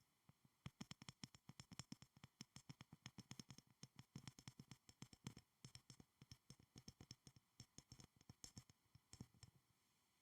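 Quiet, rapid tapping and clicking on a school supply, several short taps a second in an uneven run that starts about half a second in and stops shortly before the end.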